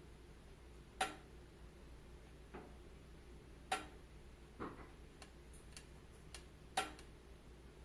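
Wood fire crackling in a fireplace: sharp pops at irregular intervals, three louder ones and several smaller ticks, over a faint steady hiss.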